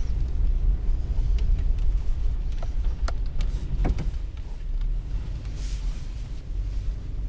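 Storm wind buffeting the microphone as a loud, steady low rumble, with a few sharp ticks of wind-blown rocks and grit striking, several of them near the middle.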